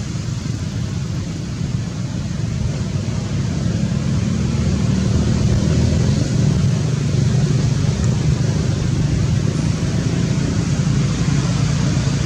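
A steady low rumbling noise that grows a little louder about four seconds in.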